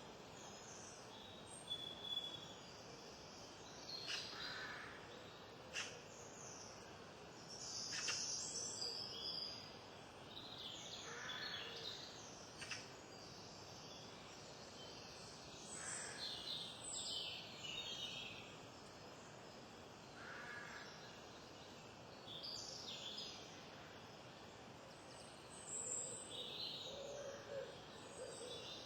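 Small birds chirping and calling in short, scattered high phrases over a steady outdoor background hiss, with a lower repeated call near the end.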